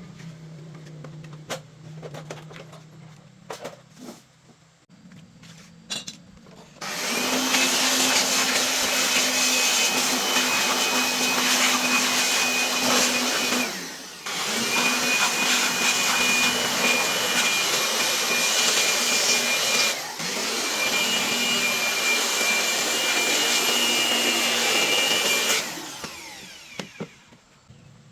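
A small electric motor running with a loud rushing, air-moving sound, about seven seconds in, with a steady hum and a high whine; it dips briefly twice and stops a couple of seconds before the end. Light clicks and knocks come before it starts.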